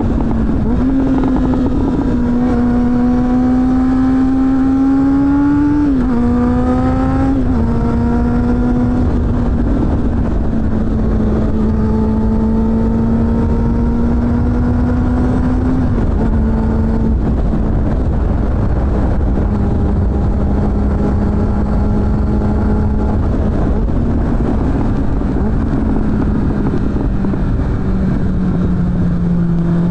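Suzuki GSF600 Bandit's 600 cc inline-four engine through a BOS aftermarket exhaust, heard riding on the bike with wind noise. The engine pulls with slowly rising revs, and its pitch drops sharply twice about six and seven and a half seconds in, as at gear changes. It then holds a nearly steady note, eases off near the end and picks up again.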